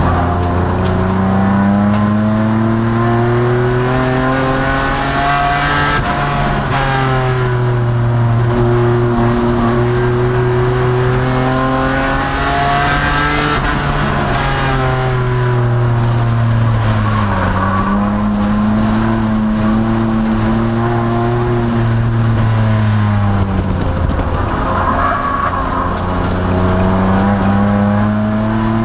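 2002 Nissan Maxima race car's V6 engine under hard running, heard from inside the cabin, its pitch climbing over several seconds and then falling away several times as the car laps the track.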